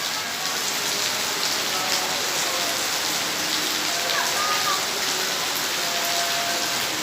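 Heavy rain pouring down, a steady dense hiss of water on surfaces.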